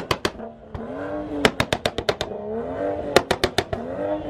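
Car engine on two-step launch control: the revs climb to the limiter and hold there while the exhaust fires rapid strings of loud pops and bangs. This happens in repeated rounds of revving and banging.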